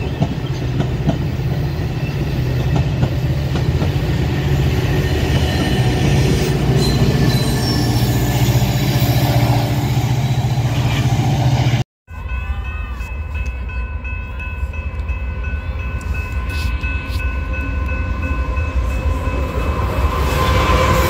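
A train passing close by with a steady heavy rumble, broken by a brief cut about halfway through. After the cut, thin steady high-pitched tones ring over the rumble.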